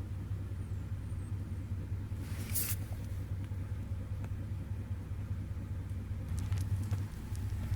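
A vehicle engine idling with a steady low rumble. There is a brief hiss about two and a half seconds in.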